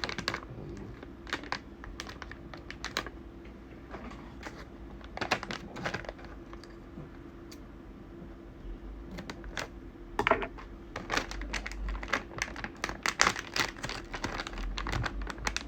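Plastic snack packet being cut open and handled: irregular clicks and crinkles, sparse at first and coming thick and fast in the last few seconds.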